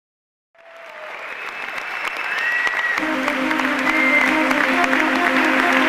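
Audience applause fading in and growing louder, with a couple of short whistles. Music with steady held notes comes in about three seconds in.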